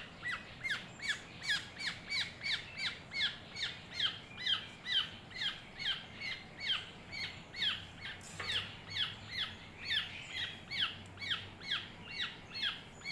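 An oriole chick begging while being hand-fed: short, high, downward-slurred squawks repeated about twice a second without a break.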